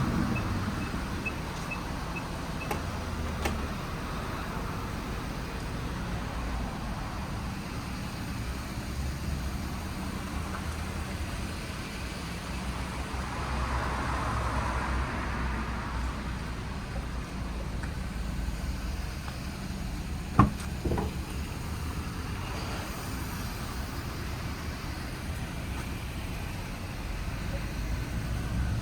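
Steady low rumble of a Nissan Serena idling, with a row of faint high beeps in the first few seconds and one sharp click about twenty seconds in.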